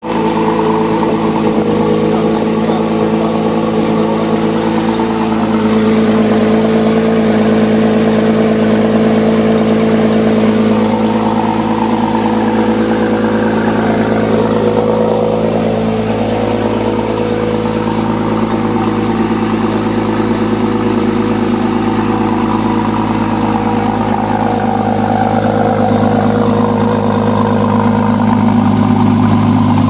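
Porsche Boxster engine and exhaust running at steady revs, the pitch holding nearly level throughout.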